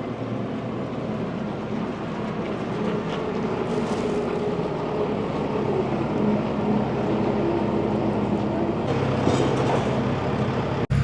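A diesel machine's engine running steadily, with a stronger low engine note coming in about nine seconds in.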